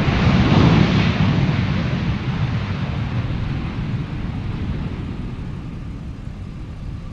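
Boeing 787-9 jet engines on a landing airliner, a loud rush that peaks about a second in and then fades steadily as the aircraft rolls away.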